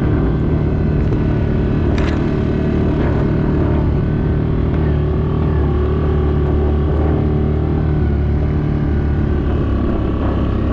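A vehicle engine running at a steady speed, a constant low hum that holds one pitch throughout.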